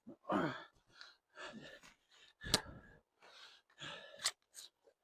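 A man breathing hard with effort while slogging through deep mud, including a sighing exhale that falls in pitch near the start. Two sharp knocks or clicks sound, the louder one about halfway through.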